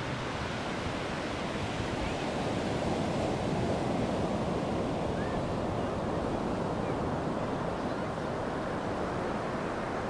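Ocean waves breaking on a sandy beach, a steady wash of surf that swells a little midway, with some wind on the microphone.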